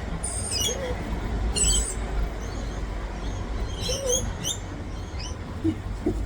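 Small wild parrots giving short, high-pitched chirps and squeaky calls in a few quick clusters, near the start, at about two seconds and at about four seconds, over a low steady rumble.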